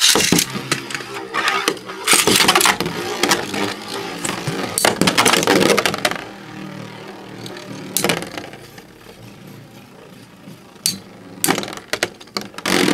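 Two metal Beyblade spinning tops are launched into a plastic stadium. They whir with a steady hum as they spin and clash repeatedly with sharp metal clacks.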